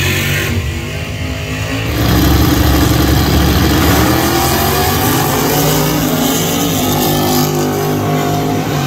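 Car engine at a drag strip accelerating hard: a jump in loudness about two seconds in, then engine pitch climbing steadily for several seconds before levelling off.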